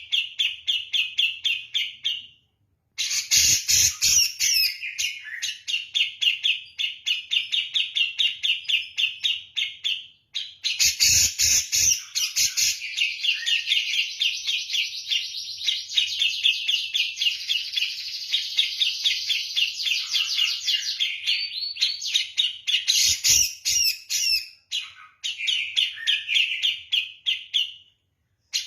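A cucak jenggot (grey-cheeked bulbul) singing persistently: a fast, steady run of repeated high chirping notes, about four a second, broken by a few short pauses. The song is in the rapid, insistent style likened to the kapas tembak.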